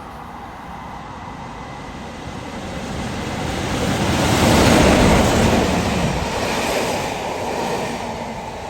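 A train passing by: a rushing noise that swells to its loudest about five seconds in, then fades.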